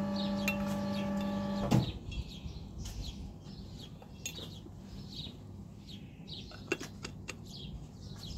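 A steady machine hum cuts off suddenly with a click under two seconds in. Then small birds chirp repeatedly, short falling chirps, with a few light clicks.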